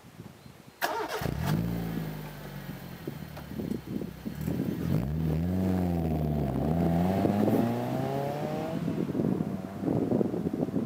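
Suzuki Swift 1.3's four-cylinder petrol engine through a Magnaflow Street Series exhaust, starting about a second in with a brief flare, settling, then revved up and down a couple of times before the engine sound falls away near the end.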